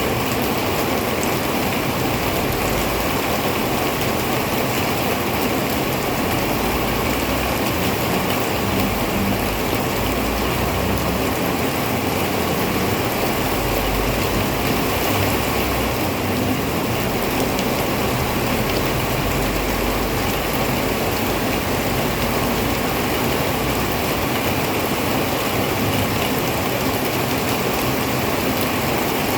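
Heavy rain pouring down steadily in a constant dense hiss.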